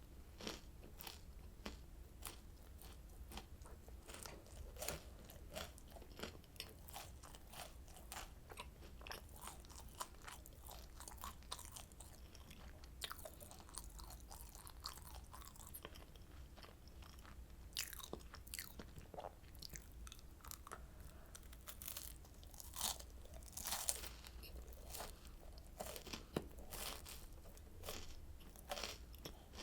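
Close-miked crunching and chewing of oranda, a Korean puffed-grain snack bound with hardened syrup: a steady run of small crisp crackles, with a few louder bites in the second half.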